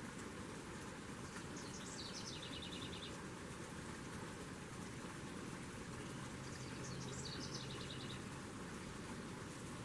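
A songbird sings two short phrases about five seconds apart, each starting high and dropping into a fast trill, over a steady background of outdoor noise.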